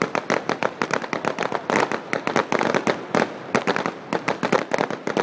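Aerial fireworks bursting overhead: a dense, irregular stream of sharp cracks and pops, many a second, from glittering crackling shells.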